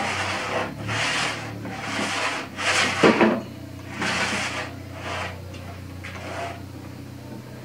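Wood being rubbed or scraped in repeated strokes, about one a second, the strongest about three seconds in and fainter after that.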